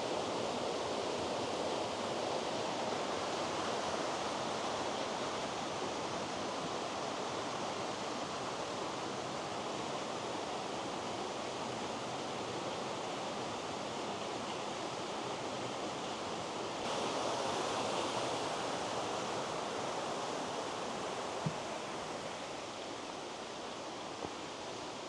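Waterfall rushing: a steady hiss of falling water that shifts slightly in tone about two-thirds of the way through, with a faint click near the end.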